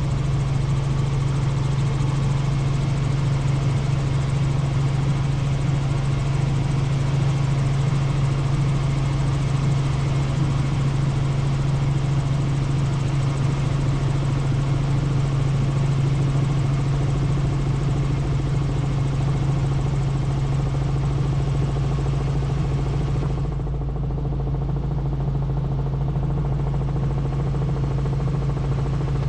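Helicopter engine and rotor noise in flight: a steady, loud drone with a strong low hum and a fast beating flutter. It sounds duller from about 24 seconds in, as the higher hiss drops away.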